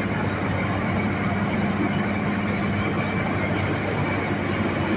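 Al-Ghazi tractor's diesel engine running at a steady speed, an even hum that does not change.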